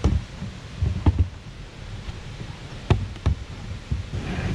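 A few dull knocks and thumps as the hard camera case and its rail mount on the kayak are handled: one near the start, one about a second in, and two close together about three seconds in.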